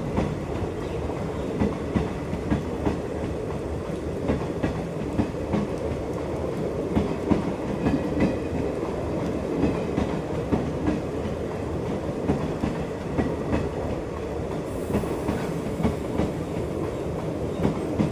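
Passenger train running along the track: a steady rumble of the coaches with a quick, uneven run of wheel clacks over the rail joints.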